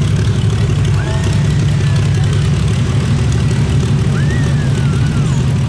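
Big pulling-vehicle engine idling loudly and steadily, a deep even rumble.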